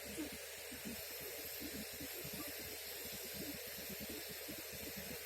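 Steady hiss with a faint, rapid low crackle underneath.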